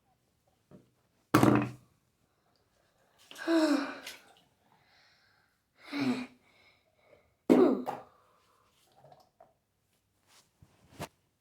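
A person's voice making four short non-word sounds, like coughs or throat clearing, spaced about two seconds apart.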